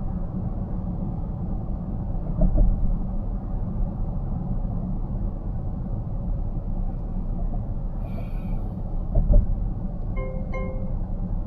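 Steady road and tyre noise of a car driving at highway speed, heard inside the cabin, with two low thumps, one a couple of seconds in and one near the end. Shortly before the end, a short electronic tone sounds twice.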